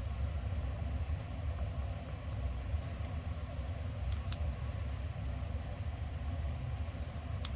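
Steady low rumble with a faint hiss above it and a couple of faint ticks about four seconds in.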